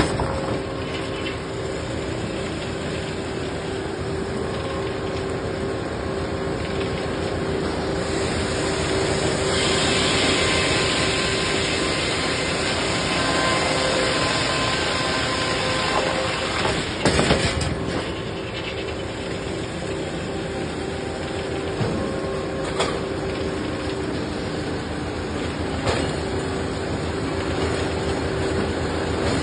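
A motor-driven saw running steadily while cutting through a large log, with a brief clatter a little past halfway and a couple of sharp knocks later.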